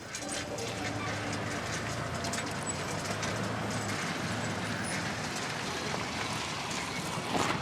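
Steady background of street traffic noise with a low hum and scattered clicks and knocks, one louder knock near the end.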